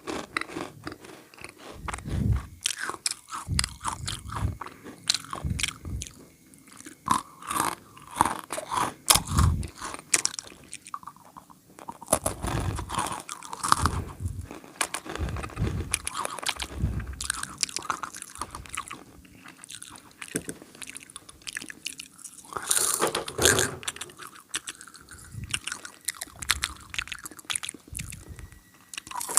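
Close-miked biting and chewing of snack food, with many irregular crisp crunches.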